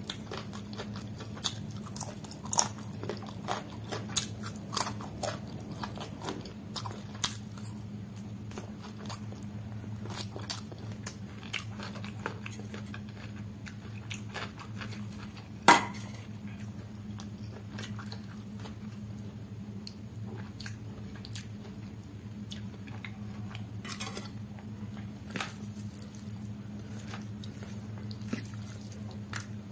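Close-up eating of chicken curry and rice by hand: wet chewing, mouth clicks and crunches, many short sharp clicks in quick succession, with one much louder click about halfway. A steady low hum runs underneath.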